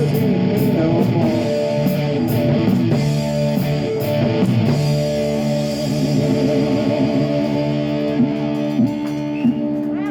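Live rock band (electric guitar, bass and drum kit) playing the final bars of a song. The steady cymbal beat stops about halfway through, a long chord rings with a wavering vibrato, three drum hits land near the end, and then the last note cuts off.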